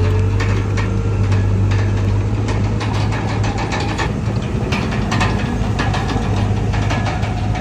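Komatsu D31PX bulldozer's diesel engine running steadily with a low drone, and frequent sharp clanks and knocks over it.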